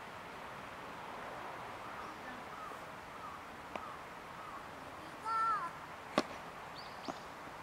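Birds calling over a steady faint background hiss: a string of short chirping notes, then one louder pitched call about five seconds in that drops in pitch at its end. A single sharp click follows about a second later.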